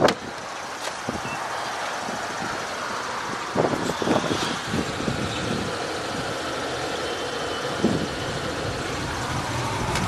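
Steady running noise of the 2013 Chevy Equinox's 3.6-litre V6 at idle, with a few short knocks about three and a half, four and eight seconds in.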